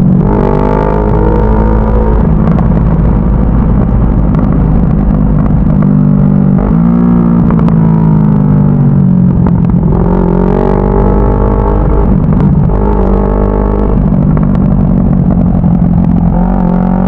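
CFMoto 400NK's parallel-twin engine accelerating under riding load. The engine note climbs, drops back at each gear change and climbs again several times, over a steady low rumble.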